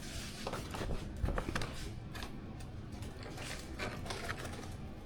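Small kit parts being handled: scattered light clicks and rustles over a low steady room background.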